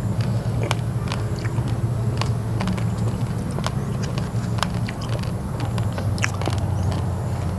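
Raw rice grains (basmati mixed with glutinous rice) crunching between the teeth as they are chewed. There are sharp, irregular cracks a few times a second over a steady low rumble.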